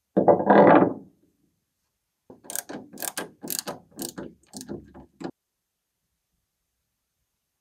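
A loud dull knock, then a run of about a dozen sharp mechanical clicks over some three seconds, stopping suddenly.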